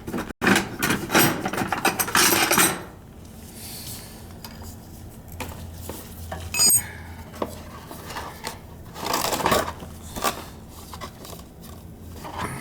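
Metal tools and fittings clinking, rattling and scraping as they are handled while an oil burner is worked on, with a short bright metallic ping a little past the middle.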